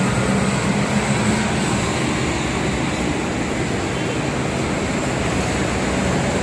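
Steady wash of distant city and highway traffic noise heard from high above the streets, with no single event standing out.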